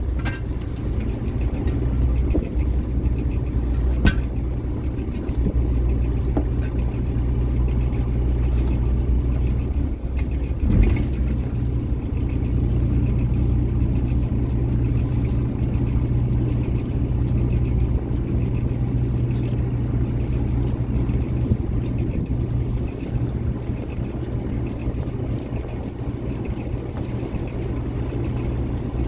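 Fishing boat's engine running steadily with a low hum, and a couple of sharp knocks on board about four and eleven seconds in.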